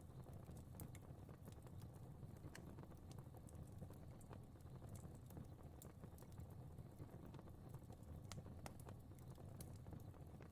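Fire crackling faintly: a steady low rumble with scattered, irregular small pops and snaps.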